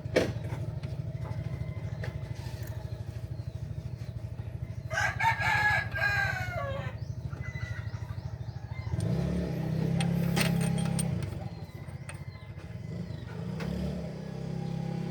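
A rooster crows once, about five seconds in, a call of about two seconds that falls in pitch at the end. Under it runs a steady low mechanical drone, which grows louder and swells twice in the second half.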